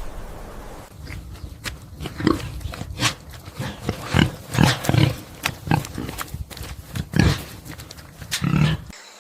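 An animal giving a run of short, low-pitched calls at irregular intervals, a dozen or so, stopping just before the end.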